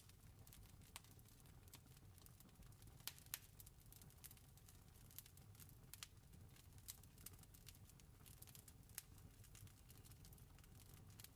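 Faint campfire crackling: irregular sharp pops and snaps, several a second, over a steady low rumble.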